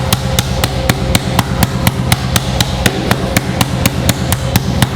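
A meat mallet pounds boneless chicken breast pieces flat with quick, even strikes, about three or four a second.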